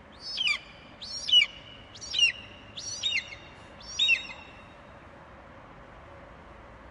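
An eagle screeching: a run of five high, falling calls about a second apart, then stopping after about four seconds.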